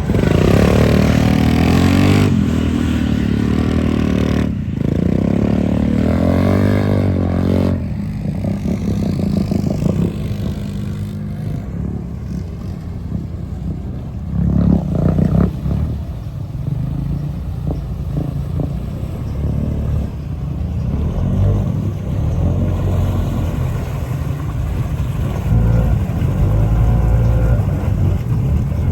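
Off-road vehicle engine running under load, revving up and down in the first several seconds, then a steadier low drone with occasional surges of throttle.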